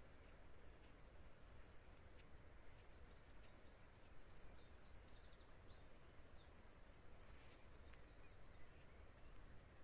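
Near silence: faint outdoor ambience with a bird chirping faintly in quick runs of high notes from about two and a half seconds in.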